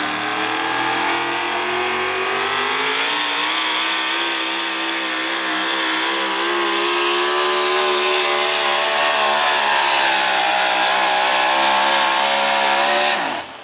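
Modified pulling truck's engine at full throttle, hauling the weight-transfer sled down the track. Its pitch climbs over the first few seconds and then holds steady. Near the end it drops away sharply and cuts off as the pull ends.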